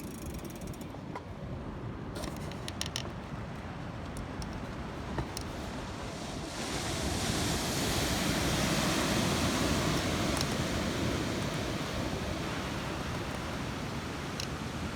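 Ocean surf washing with wind on the microphone; a louder rush of noise builds about six seconds in and slowly eases off.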